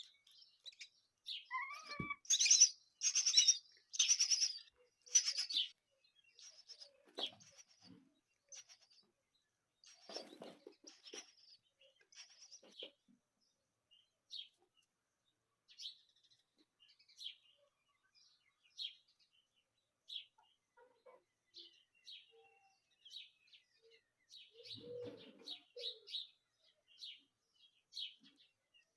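Small birds chirping: a quick run of loud, high chirps in the first few seconds, then scattered short single chirps.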